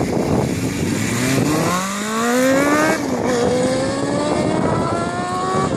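Motorcycle engine accelerating hard, its pitch climbing, then dropping abruptly as it shifts up a gear about three seconds in and climbing again. Another shift comes near the end.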